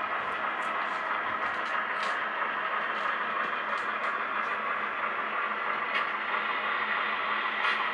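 HO-scale model train running slowly as it pushes a cut of cars, a steady hum and rolling noise with scattered light clicks over the track.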